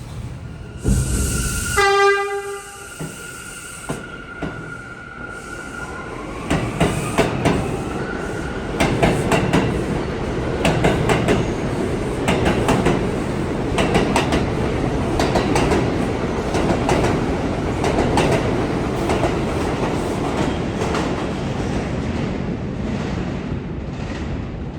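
New York City subway train sounding a short horn blast about two seconds in, just after a loud burst of noise. Then it runs past with wheels clattering over the rail joints in a fast run of clicks that goes on to the end.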